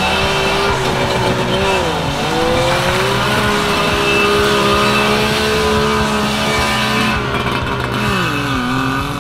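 Suzuki Jimny SJ10's two-stroke three-cylinder engine revving hard. Its pitch dips about two seconds in, holds high and steady through the middle, and drops again near the end.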